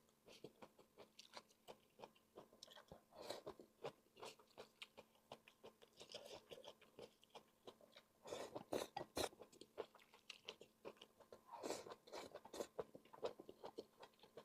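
A person chewing and biting food close to the microphone, with short mouth clicks and crunches in irregular clusters, the loudest a little past halfway.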